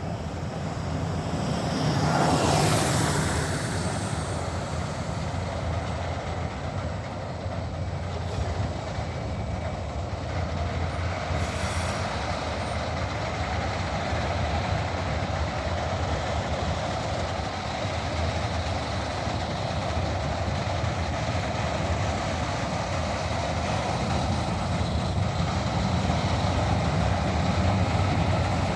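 Diesel locomotives of a slow-moving freight train running steadily with a low drone, along with the rumble of the rolling train. A brief loud burst of noise comes about two to three seconds in.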